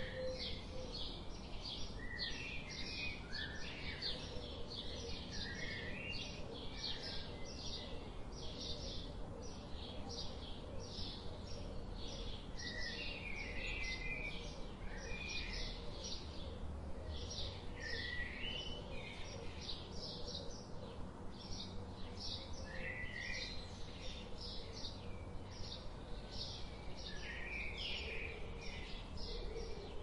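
Birds chirping: a short high chirp repeated about twice a second, with other scattered bird calls, over a low background hum of outdoor ambience.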